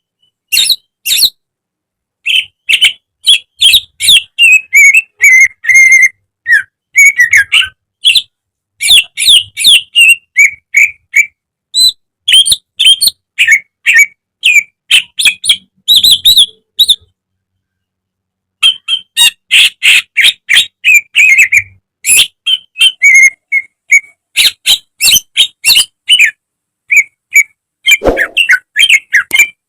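Cucak ijo (green leafbird) singing a loud, fast song of sharp whistles and chirps in long dense phrases, broken by short pauses.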